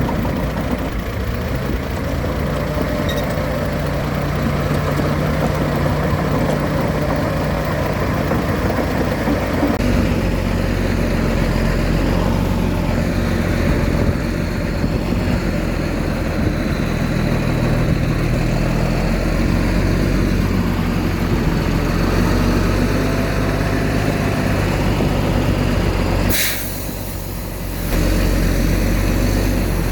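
Heavy diesel engine of earthmoving machinery running under load, its pitch shifting as it works. The low rumble grows stronger partway through. Near the end a sharp burst is followed by a brief drop in level before the engine sound returns.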